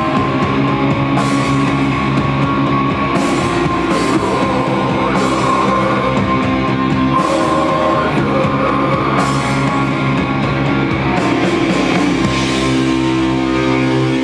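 Live rock band playing: guitars holding long chords over drums, with a cymbal crash about every two seconds. Near the end the crashes stop and the sound thins to sustained notes.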